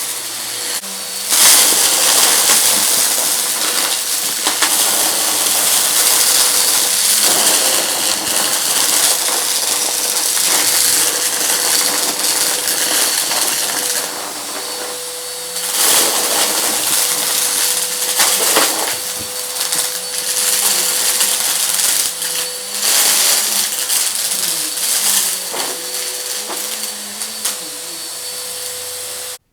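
Vacuum cleaner running on a rug with a steady motor whine, sucking up crunchy debris that crackles and rattles through it, in louder surges as it passes over the mess.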